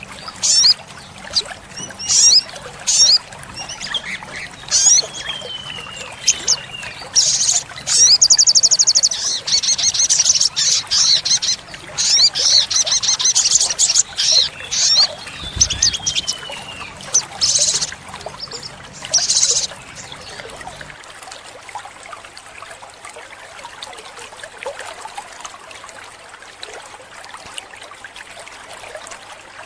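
Olive-backed sunbird singing: sharp high chirps, a couple of falling whistled notes and a long fast rattling trill. The song stops about two-thirds of the way in, leaving only a steady hiss.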